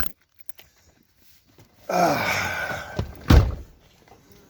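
A vehicle door slammed shut about three seconds in, after a second of movement and a short vocal sound as someone gets in.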